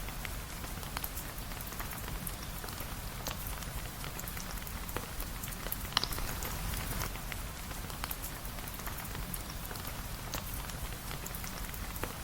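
Steady rain with scattered sharp crackles and pops from a wood fire, the loudest pop about six seconds in.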